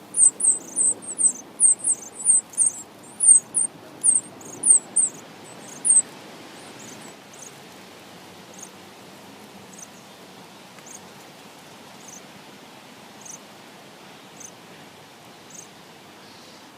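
A bird chirping: short, high-pitched chirps about three a second for the first six seconds, then fainter single chirps about once a second, over a faint steady outdoor hiss.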